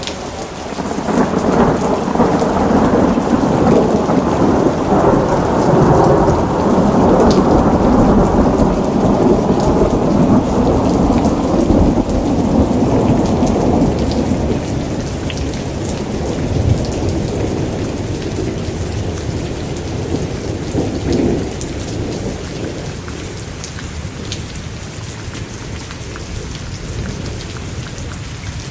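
Steady rain falling, with a long roll of thunder that swells about a second in and slowly fades away over the next twenty seconds or so.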